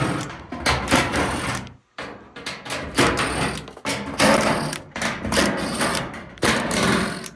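Power drill with a 1/4-inch nut-driver bit running in several short bursts, backing out the hex-head screws that hold a dryer's sheet-metal back panel.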